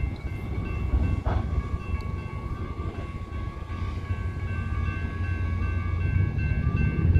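Freight train of tank cars rolling slowly, with a low rumble and a steady high-pitched metal squeal that drops in and out. A single clank comes about a second in.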